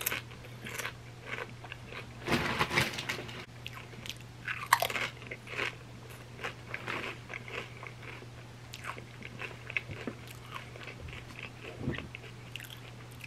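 Close-miked crunching of chips loaded with creamy dip being bitten and chewed. The loudest crunches come about two and five seconds in, then it settles into softer, steady chewing.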